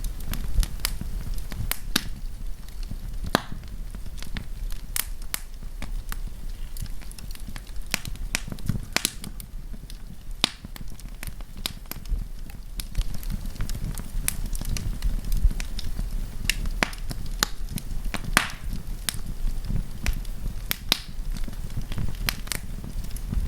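Wood campfire crackling: irregular sharp pops and snaps, some close together and some spaced out, over a steady low rumble of the burning fire.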